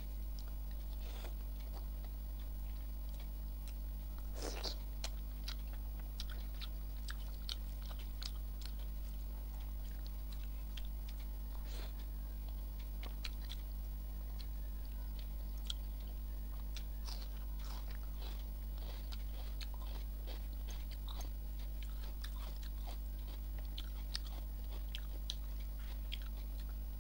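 Close-miked chewing of rice and egg omelet curry eaten by hand, with scattered small wet clicks and crunches, over a steady low electrical hum.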